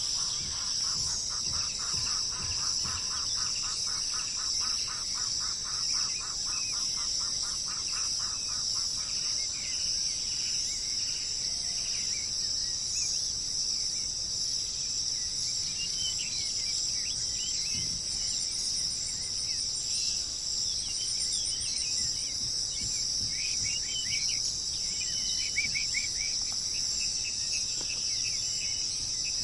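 A steady, high-pitched insect chorus, crickets or bush-crickets, runs throughout. Over it, a rapid run of repeated notes lasts for the first third, and short bird chirps come scattered through the latter half.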